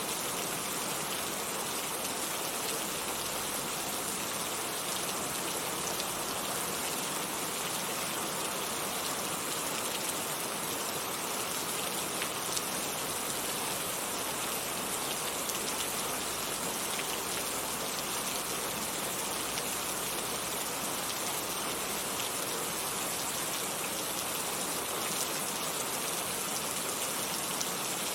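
Heavy rain falling steadily, an even hiss with scattered drop patter.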